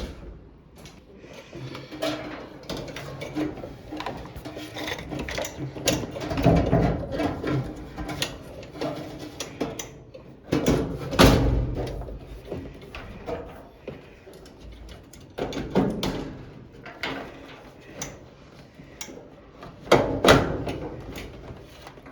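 Irregular clatter and knocks of tools and metal parts being handled during repair of a clothes dryer or washing machine, with louder knocks about six, eleven and twenty seconds in.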